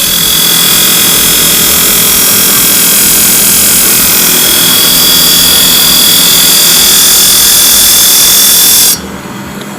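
Powered sharpening machine running as surgical scissors are ground on it to remove the nicks and raise a burr on the cutting edge. It makes a loud, steady high hiss with a thin whine over it, and cuts off suddenly near the end.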